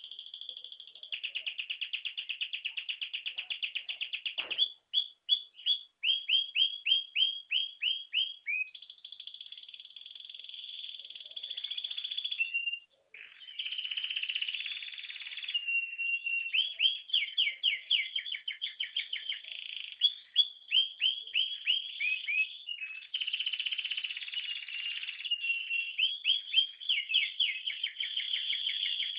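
Domestic canary singing a long song: very fast trills alternating with runs of quick downward-sliding notes, broken by two brief pauses.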